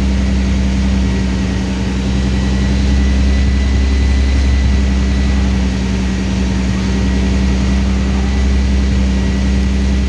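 Twin-turbocharged MG Midget engine running at a steady fast idle of about 1500 rpm on its first startup, while its ignition advance is still being sorted out.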